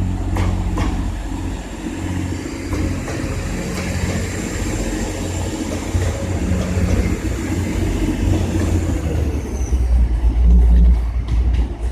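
Class 185 diesel multiple unit's engines running as it prepares to pull away: a steady low drone with a thin high whine. The whine drops away near the end and the low rumble grows heavier, with a few clicks.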